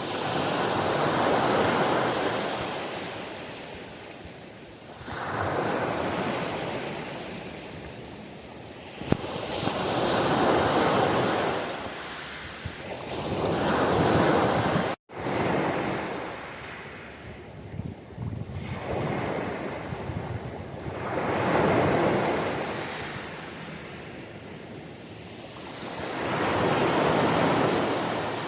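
Ocean waves washing onto a shore, the surf swelling and fading in slow surges about every four to five seconds. The sound cuts out for a moment about halfway through.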